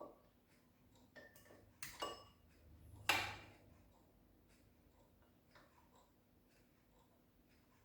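Faint metal clicks and small knocks as a caliper is handled and set against the engine to measure the crankshaft's axial play. The clicks come around two seconds in, some with a short ring, and a sharper clink follows about a second later.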